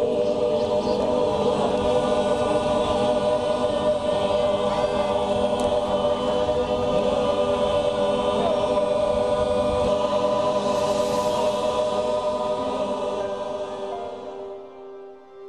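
Choral music: many voices holding sustained chords together, fading out over the last couple of seconds.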